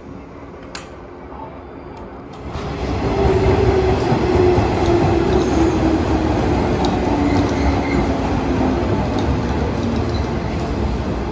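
Electric train running, probably the 113 series EMU the video is about: a quiet hum with a single click, then loud rail and running noise that comes in suddenly about two and a half seconds in. Over that noise a whine slowly falls in pitch.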